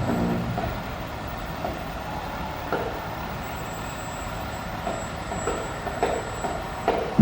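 A fire truck running steadily as it moves slowly along, with a few faint short sounds scattered over its hum.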